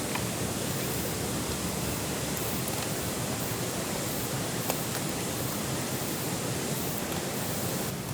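Food cooking over a campfire: a steady sizzling hiss with a few sharp crackles scattered through it.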